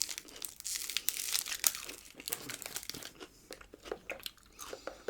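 Close-miked crinkling and rustling of a snack packet, with crunching, for about three seconds, then quieter chewing.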